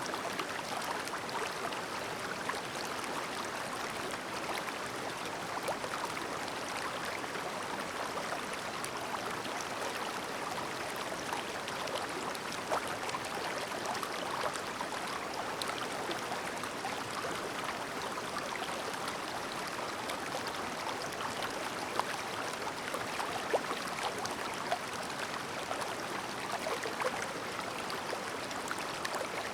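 Shallow, clear mountain stream babbling steadily over rocks, a continuous wash with small splashes and gurgles throughout.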